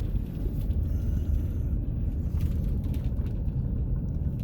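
Car driving along, a steady low engine and road rumble, with a short sharp click at the very start.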